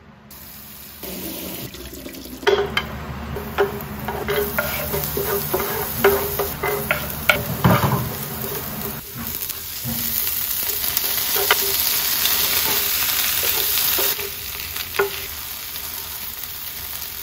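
Diced aromatics frying in a nonstick grill pan and stirred with a wooden spatula, which taps and scrapes against the pan over the sizzle. About ten seconds in, the sizzle grows louder and steadier as shrimp fry in the pan, with a few more taps.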